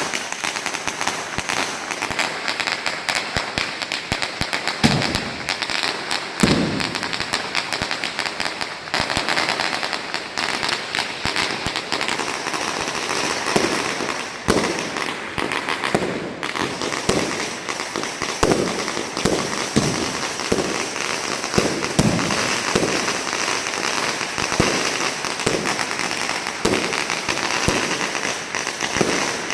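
Fireworks going off: a dense, continuous crackling of rapid pops, with louder separate bangs standing out now and then, more often in the second half.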